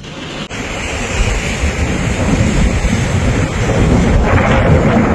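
Storm wind blasting the microphone: a loud, rumbling rush of noise that breaks off briefly about half a second in and comes back louder.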